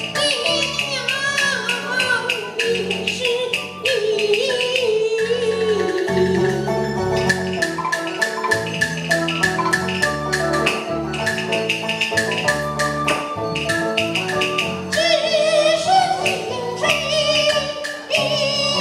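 Taiwanese opera (gezaixi) aria with its accompanying band: a wavering, ornamented vocal line sung over instrumental backing, with sharp percussion clicks keeping time throughout. The voice drops out for an instrumental passage in the middle and comes back near the end.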